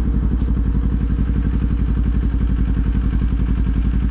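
Motorcycle engine running steadily with an even, rapid pulse and no change in revs.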